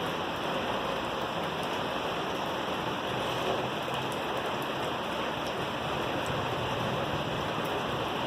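Steady rain falling during a thunderstorm, an even hiss with a few faint drop ticks.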